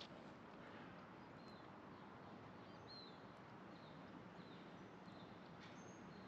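Near silence by the water, with a small bird giving faint, short high chirps every second or so.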